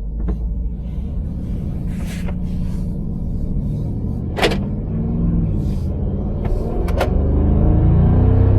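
Mercedes-Benz G-Wagon driving, its engine and road noise heard from inside the cabin. The engine note rises as it accelerates from about five seconds in, with two short sharp clicks.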